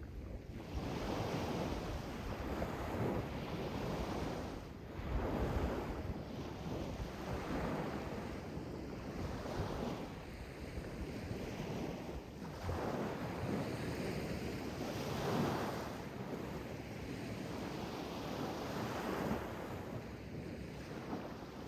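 Sea waves washing in, swelling and easing every few seconds, with wind on the microphone.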